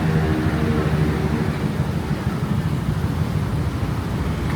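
City road traffic: a steady rumble of passing vehicles, with one engine's tone dying away over the first second or two.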